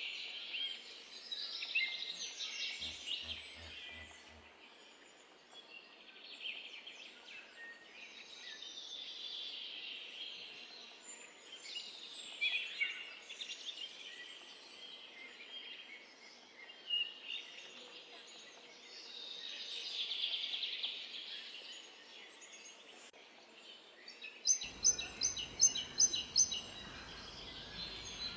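Outdoor ambience of small birds singing and chirping, with repeated short high calls over a faint background hum. Near the end, a bird gives a rapid run of high chirps.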